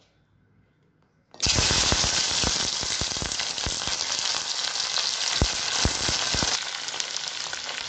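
Cut okra pieces dropped into hot mustard oil in a kadai, setting off a sudden loud sizzle about a second and a half in. The frying hiss carries on, full of sharp crackles and pops, easing slightly near the end.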